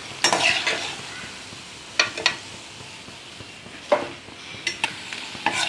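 Battered cauliflower pieces sizzling in hot oil in a pan during a second fry to crisp them, with a steady hiss. A utensil clinks and scrapes against the pan several times.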